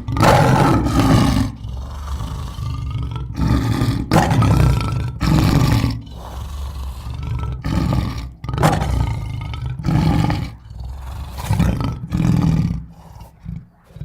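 A big cat roaring: a series of loud roars one after another, with a deep rumbling growl between them, dying down near the end.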